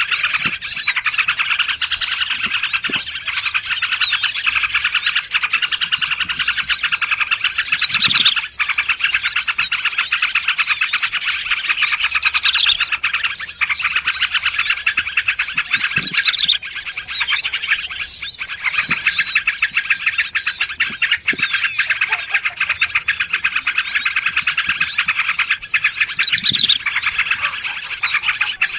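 A dense chorus of many small songbirds chirping and trilling over one another without pause, with quick sweeping notes: a mixed wild-bird lure recording used to call birds in for trapping.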